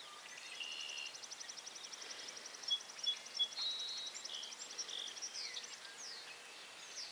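Faint background birdsong: a fast, high trill lasting about five and a half seconds, with short whistled notes and a few falling slurred calls over it.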